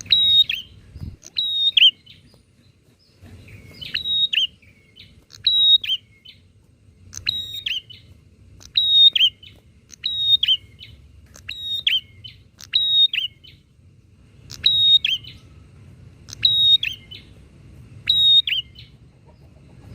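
Prinia (prenjak) calling over and over, about one call every second and a half. Each call is a short high steady note that drops in pitch at the end. A faint low hum runs beneath.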